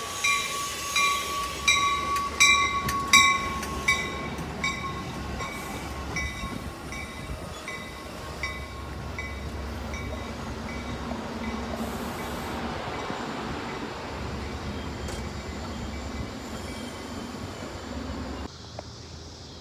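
Metra commuter train passing close by at speed: steady rumbling of the bilevel cars with wheel clacks on the rails. A bell rings about three times a second and fades away over the first half. The sound cuts off abruptly near the end.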